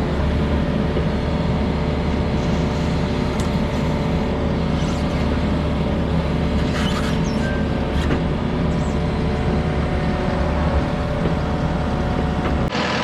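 Takeuchi skid steer's diesel engine running steadily, with a few sharp metallic clicks and clanks over it. The engine sound drops off sharply near the end.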